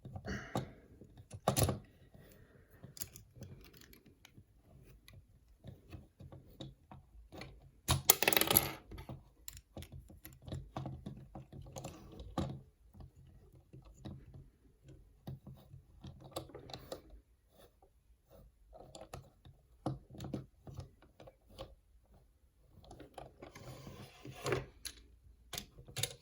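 Plastic Transformers action figure being handled, its parts giving scattered small clicks and light knocks. A louder rustling clatter comes about eight seconds in.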